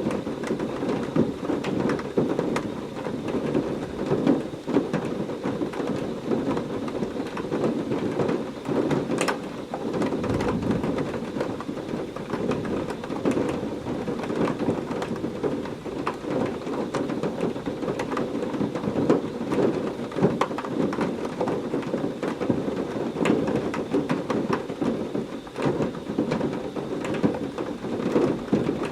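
Heavy rain pouring steadily in a thunderstorm, a dense hiss full of sharp drop hits, with a short low rumble about ten seconds in.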